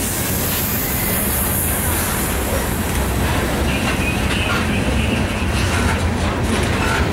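Loaded coal train rolling past: steady rumble of wheels on the rails under the heavy hopper cars, with a faint high squeal about halfway through.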